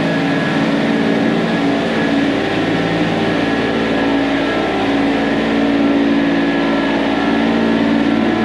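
Engine of a piece of heavy equipment running at a steady speed, close by and loud, with no clear revving or stops.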